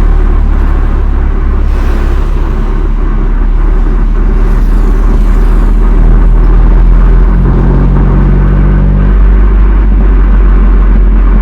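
BMW M2 Competition's twin-turbo straight-six exhaust running on the stock muffler, a steady low drone whose note shifts slightly about seven and nine seconds in. The sound is somewhat distorted by an overloaded microphone.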